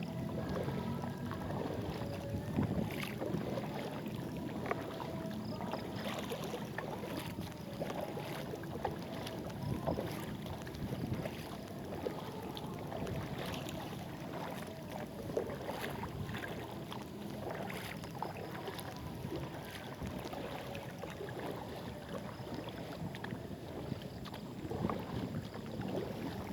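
Kayak paddling on a river: the paddle blades dip and splash in the water every second or two, over a steady wash of background noise.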